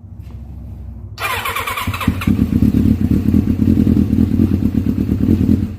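A Kawasaki Ninja's inline-four engine cold-started on the electric starter after sitting ten years. It cranks, catches about a second or two in, and runs with a fast pulsing beat before cutting off suddenly near the end.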